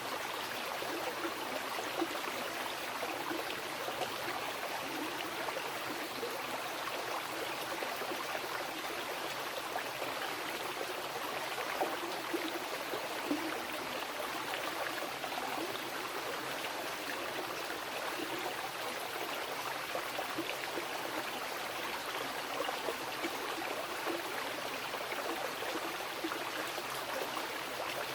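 Wild mountain river flowing over rocks: a steady rushing of water, with a few brief louder splashes now and then.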